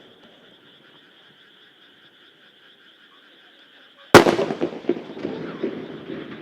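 Frogs croak in a steady chorus. About four seconds in, a large aerial firework shell bursts with one sharp, loud bang, followed by a rolling echo that slowly dies away.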